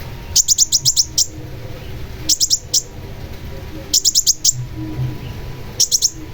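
Long-tailed shrike (cendet) calling in four quick bursts of rapid high chattering notes, four to six notes to a burst, over a steady low background rumble.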